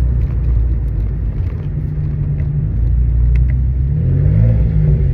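Exhaust of a BMW 335i's N54 twin-turbo inline-six running with the muffler deleted and secondary cats cut off: a steady, deep, loud rumble, its pitch rising briefly near the end.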